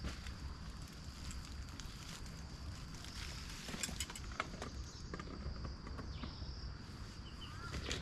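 Footsteps on the forest floor: scattered light crunches and snaps, over a steady high-pitched drone.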